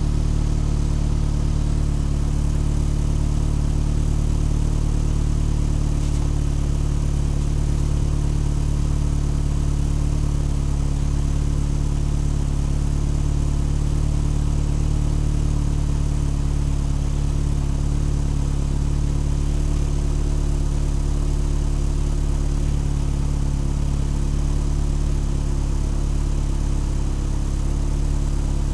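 Vehicle engine idling steadily, its pitch unchanged, with no revving.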